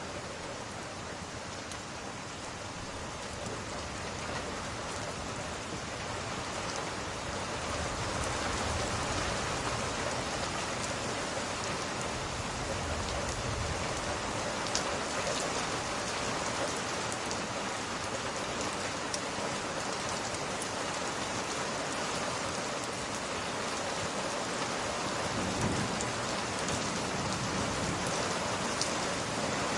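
Steady rain falling, growing a little heavier after the first few seconds, with low rumbles of thunder around the middle and near the end.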